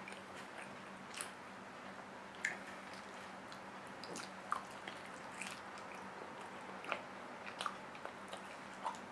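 Close-miked eating sounds: wet chewing and lip smacks as braised pork hock and rice are eaten by hand, heard as a scattering of faint short clicks and squishes. A faint steady hum runs underneath.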